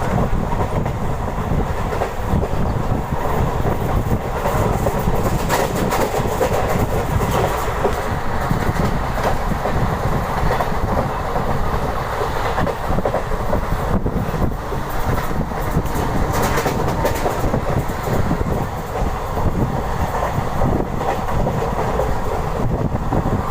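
Deccan Queen Express passenger train running, a continuous rumble with its wheels clicking and clattering over the rail joints.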